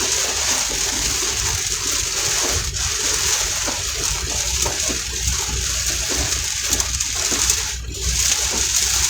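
Heavy rain pelting a vehicle's roof and windshield, a steady dense hiss with a low rumble underneath.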